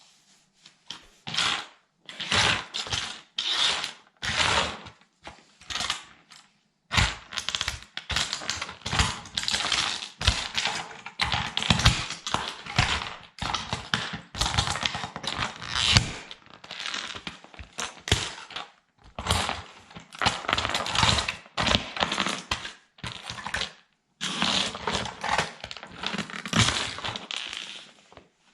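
A toy military truck cracking and crunching as it is crushed under a sandal: separate bursts of crackling at first, then long almost unbroken stretches of snapping and crunching.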